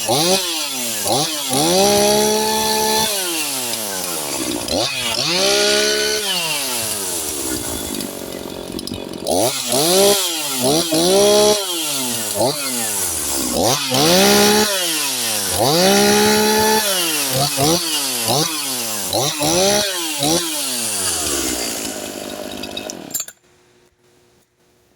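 Echo CS-4910 two-stroke chainsaw with a modified muffler, revved in repeated quick throttle blips, its pitch shooting up and falling back to idle each time. It cuts off suddenly near the end as the engine is stopped.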